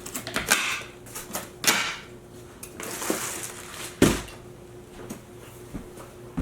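Cardboard box and packing being handled and pulled open: a run of scrapes and rustles, with a sharp knock about four seconds in.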